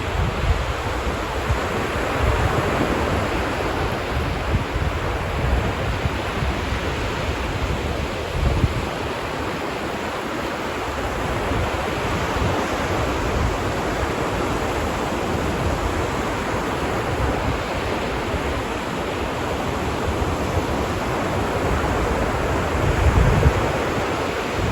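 Ocean waves washing steadily onto a beach, a continuous surf hiss, with wind buffeting the microphone in low rumbling gusts, most strongly about eight seconds in and near the end.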